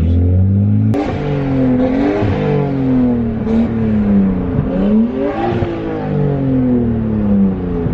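Nissan Skyline R32 GTS-T's turbocharged straight-six revving up and falling back three times, heard from inside the cabin. There is a sharp click about a second in.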